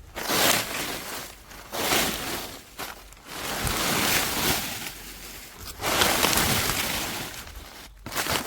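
Rustling and crunching in dry vegetation, coming in four swells of a second or two each.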